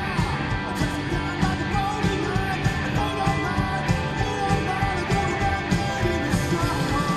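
Live rock band performing, with a steady drum beat under sustained guitar and keyboard lines.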